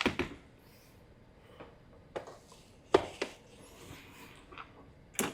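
A few scattered light clicks and knocks as the dead LED shop light is handled and tried.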